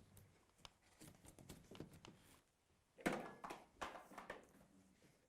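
Quiet handling sounds as the router's power cable and extraction hose are connected: scattered clicks and knocks, loudest in a short cluster about three seconds in.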